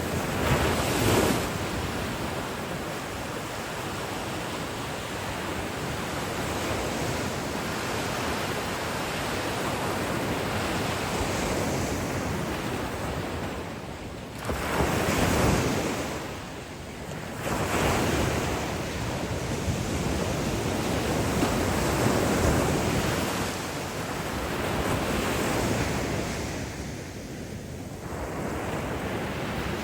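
Ocean surf: waves breaking and washing up the beach in a continuous rush that swells and fades, with louder surges about a second in and again around halfway, and wind buffeting the microphone.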